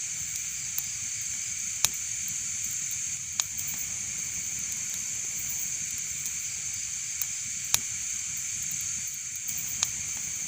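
Wood fire crackling in a fireplace: a steady hiss broken by a handful of sharp, single pops, the loudest about two seconds in and again near the end.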